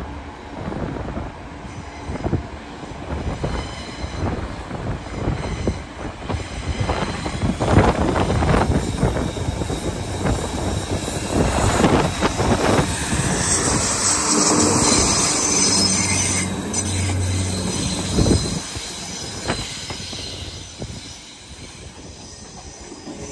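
Railway train passing, its wheels clacking over rail joints and squealing, loudest in the middle stretch before fading away.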